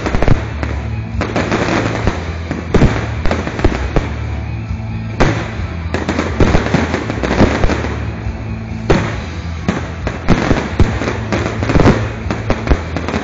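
Fireworks display: many sharp bangs and dense crackling from bursting shells, coming in several thick clusters, over music with a steady bass.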